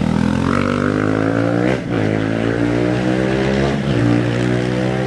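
An off-road race engine accelerating hard away from the line, its pitch climbing, breaking briefly and dropping back at each of two upshifts, about two seconds apart.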